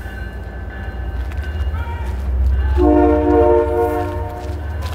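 MBTA commuter train's coaches rolling past with a steady low rumble, and about halfway through a train horn sounds a multi-note chord for about a second and a half.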